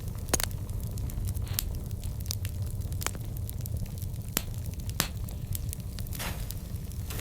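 Wood fire burning: a steady low rumble with scattered sharp crackles and pops, the loudest about half a second in, and a brief hiss near the end.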